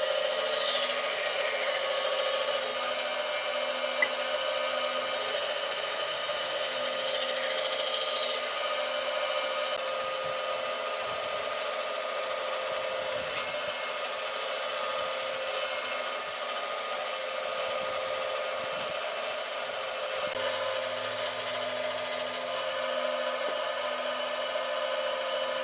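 A power tool running continuously at a steady speed on wood, with one sharp click about four seconds in.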